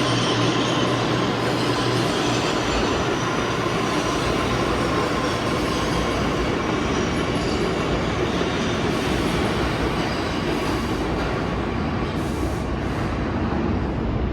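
New York City subway train running through the station, steady rumble of steel wheels on rail, with a thin wheel squeal that fades away about halfway through.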